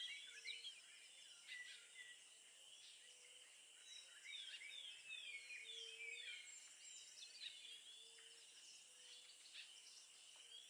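Faint birds chirping and twittering, many short quick calls one after another, over a steady high-pitched whine.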